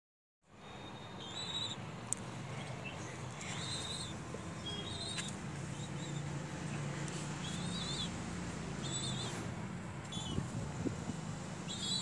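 A bird chirping over and over, short high chirps about once a second, over a steady low hum.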